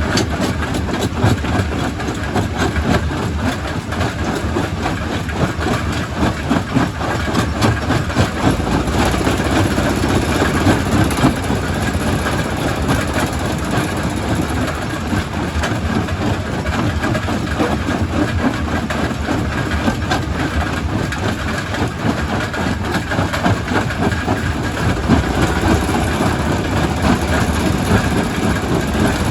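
Primary rock crusher running: a steady heavy engine rumble under a constant clatter of stone being broken and rattling through the machine.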